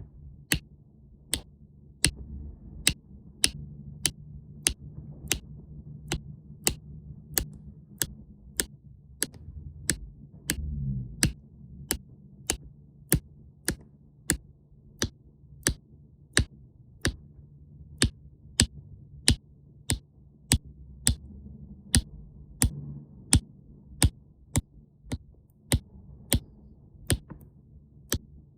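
Steady, even ticking, about four sharp ticks every three seconds, over a low steady hum.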